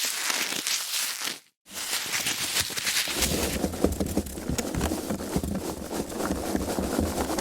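Foam packaging being handled and rubbed, in short takes split by a brief silence about a second and a half in. From about three seconds in the handling turns lower and denser, with many small clicks and creaks.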